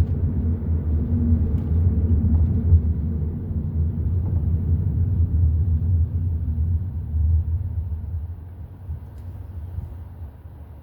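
Hyundai i30 N Line on the move, heard from inside the car: a steady low rumble of engine and tyres on the road, which dies down over the last few seconds.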